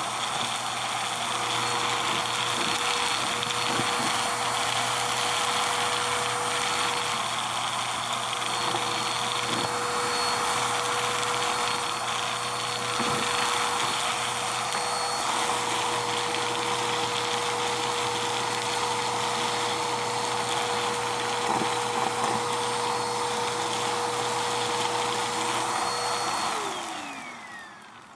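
Vacuum cleaner running steadily with a constant whine as it sucks up Styrofoam, with a few faint ticks. Near the end the motor is switched off and its whine falls away.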